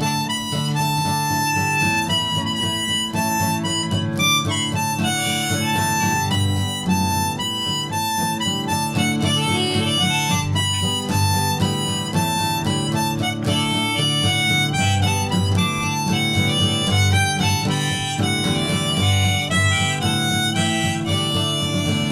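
Harmonica playing a melody of held notes over acoustic guitar chords, an instrumental break in a folk song.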